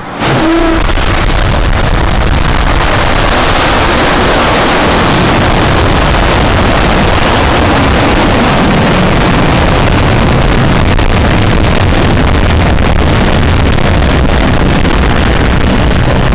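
Firefly Alpha rocket engines firing at launch: a very loud, steady roar of noise that starts abruptly.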